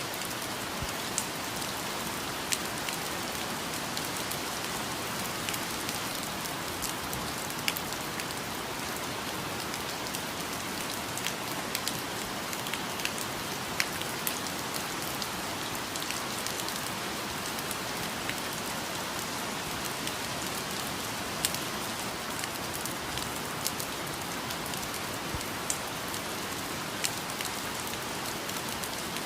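Steady rain falling in a rainforest, an even hiss with many sharper drops striking close by at irregular moments.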